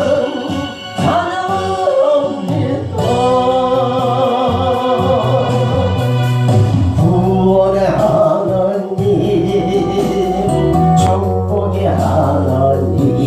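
A man singing a Korean gospel praise song over instrumental backing, holding long notes.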